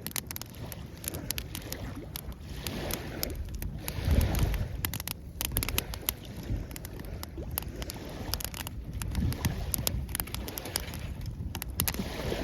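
Small waves washing onto the shore, swelling about four seconds in and again near the end, with a wood campfire crackling and popping.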